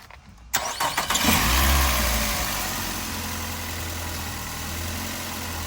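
Nissan Altima engine cranked and started about half a second in, rising briefly before it settles to a steady idle. It is making a noise that the owner puts down to worn engine mounts letting the engine shift and shake.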